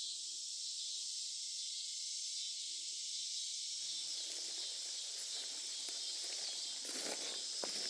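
Steady high-pitched chorus of cicadas and other insects. Footsteps begin near the end.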